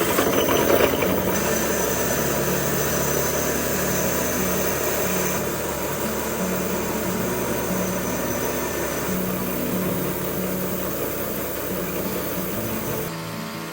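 A large machine running steadily, a loud even rush with a low hum, shifting a little a couple of times and cutting off suddenly near the end.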